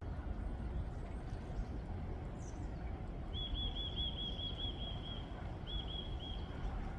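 Wind blowing on the microphone as a steady low rush, with a small bird singing a fast trill of repeated high notes about halfway through, breaking off briefly and adding a few more notes.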